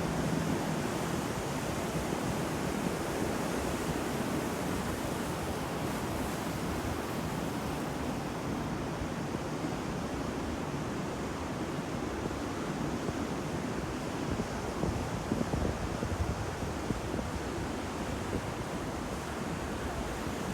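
Steady rush of wind and breaking waves, with gusts of wind buffeting the microphone in the second half. A faint low hum fades out in the first few seconds.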